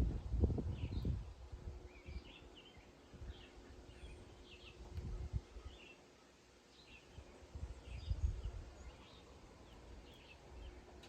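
Small birds chirping over and over in the background, with low rumbling bumps on the microphone that are loudest in the first second and again about halfway and near two-thirds through.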